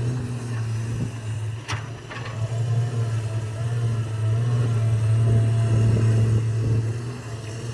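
Diesel engine of a heavy earthmoving machine running steadily, growing louder for a few seconds past the middle, with two sharp knocks about two seconds in.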